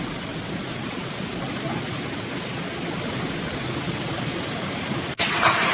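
Steady rushing hiss of torrential rain and floodwater. About five seconds in it cuts off abruptly and comes back as a louder, brighter rush.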